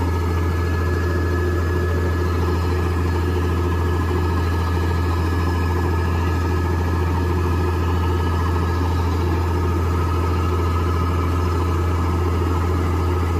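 Diesel engine of a farm tractor or combine harvester running steadily at low revs, a constant deep hum with no revving.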